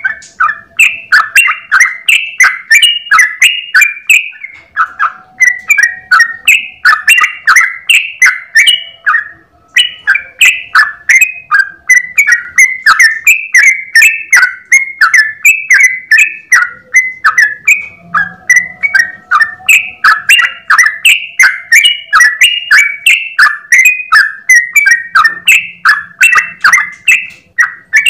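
Yellow-vented bulbul (trucukan) singing a long unbroken 'ropel' run: a rapid stream of loud, bubbly chattering notes, several a second, with no pause.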